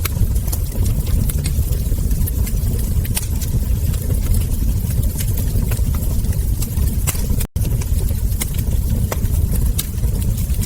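Wood fire crackling: irregular sharp pops and snaps over a steady low rumble. The sound drops out for a split second about seven and a half seconds in.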